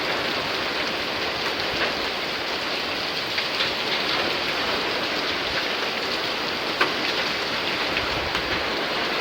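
Heavy downpour: rain pouring steadily, with scattered sharper drop hits, the loudest about seven seconds in.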